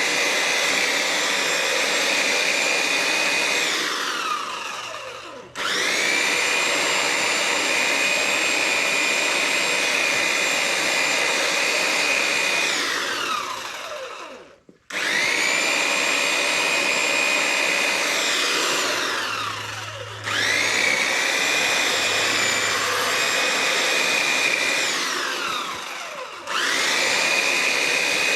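Electric garden power tool's motor being triggered on and off while cutting back lavender. Each time it snaps up to a high steady whine, runs for several seconds, then falls away in pitch as it spins down once released. This happens about four times.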